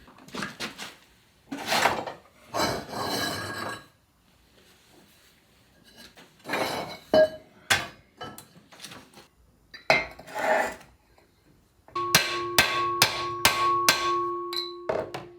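Hammer blows driving a bearing onto a Land Rover Series gearbox pinion shaft, struck on the bearing's inner race. Scattered strikes and scraping come first, then near the end a quick run of about eight sharp metal blows, each leaving a ringing tone.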